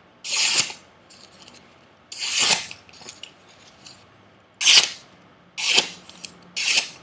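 Edge of a freshly sharpened Chinese chef knife slicing through paper in five separate hissing strokes of about half a second each, spaced irregularly, the last three in quick succession near the end; the clean cuts show a sharp edge.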